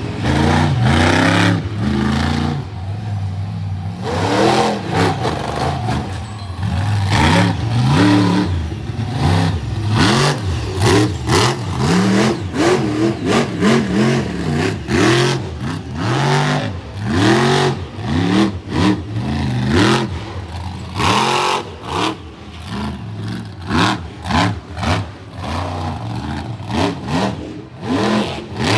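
Monster truck engine revving hard over and over, its pitch climbing and dropping every second or so, with sharp bangs scattered through.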